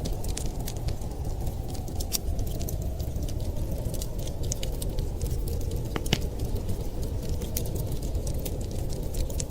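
Wood fire crackling, with frequent sharp irregular pops over a steady low rumble of wind; one louder pop comes about six seconds in.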